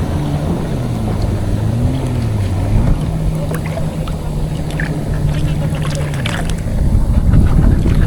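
A boat engine drones over wind and water noise. Its pitch wavers for the first few seconds, then holds steady, and the drone stops a little before the end.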